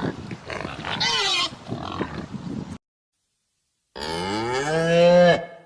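An animal grunting with a short high squeal about a second in, cut off abruptly; after a second of silence, a cow moos once, a long call that rises and then falls in pitch.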